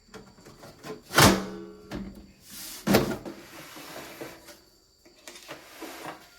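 Two loud knocks, about a second in and near the three-second mark, each ringing briefly, among lighter clicks and handling noise.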